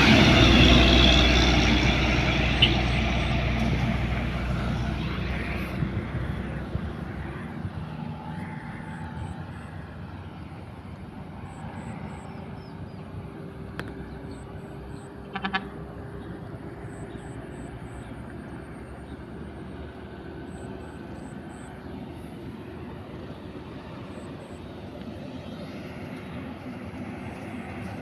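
A truck's diesel engine, loud at first and fading away over several seconds as the truck moves off, leaving a steady hum of distant traffic. A short high-pitched beep sounds about halfway through.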